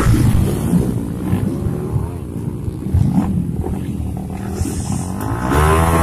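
Modified motorcycle engines revving and accelerating at a drag start line, several bikes running at once; near the end one engine revs up hard with a rising pitch.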